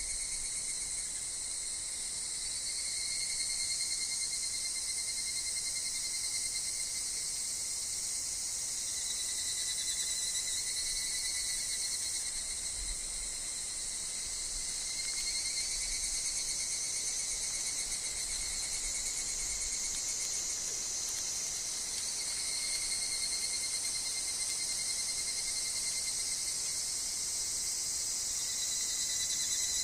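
Steady chorus of higurashi (evening cicadas) and other insects in a forest, a continuous high-pitched trilling whose pitch shifts slightly as calls overlap.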